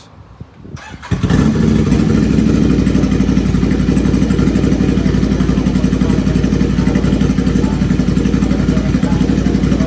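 Ducati Scrambler 800's air-cooled L-twin being started with its headerback exhaust open and the dB killer removed: it catches about a second in and settles into a loud, steady idle, around 96 dB.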